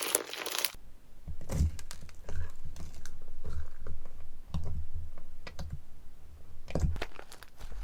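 Slime being squeezed and poked by hand, making quick soft clicks and pops over dull low thuds. A louder crinkling, crunching sound cuts off within the first second.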